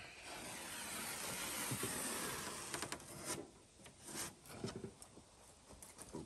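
A long scraping rub along rigid foam board insulation, lasting about three seconds, followed by scattered light knocks and taps as the board and straightedge are handled.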